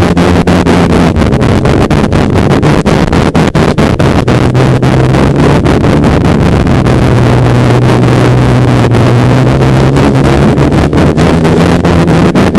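Polaris snowmobile engine running under way, its pitch dropping about four seconds in and rising again near the end, with wind buffeting the microphone in rapid crackles.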